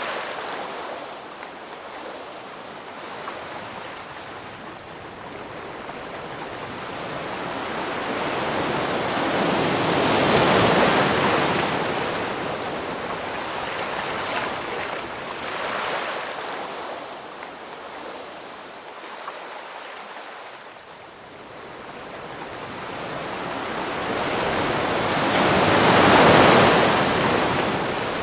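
Ocean waves breaking, a steady wash of surf that swells and falls back slowly. Two big waves crest about ten seconds in and near the end, with smaller surges between them.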